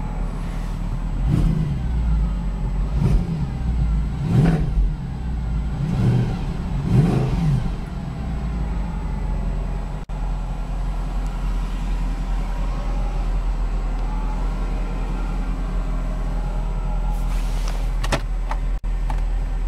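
Mercedes C63 AMG's 6.2-litre V8 revved in about five quick blips, each rising and falling in pitch, then settling to a steady idle about eight seconds in.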